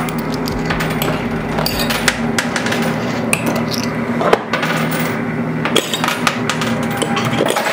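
Quarters clinking and clattering in a coin pusher arcade machine. Many sharp metallic clicks come at an irregular pace over a steady machine hum.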